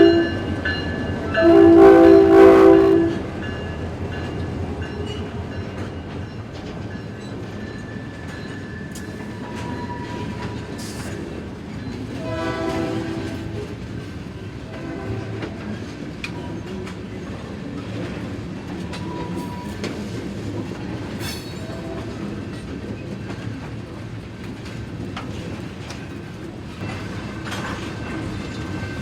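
Freight locomotive horn blowing for street running: a short blast, then a longer one about two seconds in, and a fainter short blast about twelve seconds in. Between and after the blasts comes the steady rumble of the train rolling along the street track.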